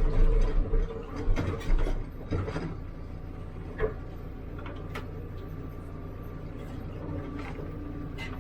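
HIDROMEK 102B backhoe loader running steadily, with a run of clunks and knocks over the first three seconds, then only a few isolated clicks.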